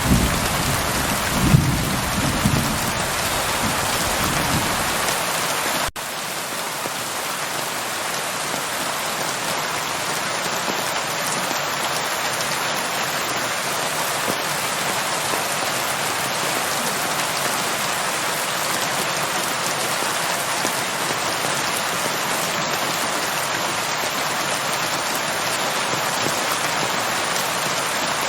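Steady rain falling, with a low thunder rumble fading out over the first five seconds or so. A brief dropout about six seconds in, then an even rain hiss.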